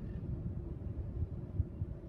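Norfolk Southern mixed freight train's cars rolling past in a steady low rumble, heard muffled from inside a stopped car.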